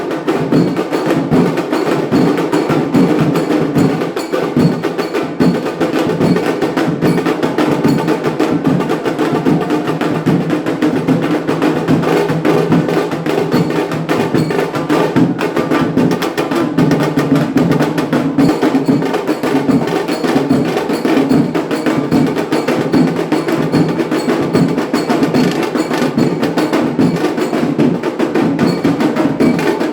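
Indian wedding band (band baaja) playing: drums and hand percussion keep a fast, steady beat over sustained melody tones, without a break.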